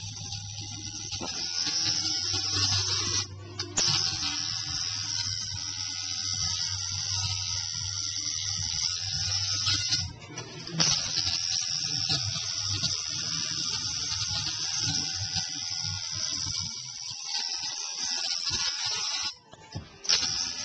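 Tattoo machine buzzing steadily over a constant high hiss. The sound cuts out briefly three times: about three seconds in, about ten seconds in, and near the end.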